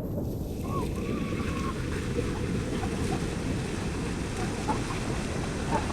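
Steady rush of river water from the falls and rapids, a dense low noise with no break.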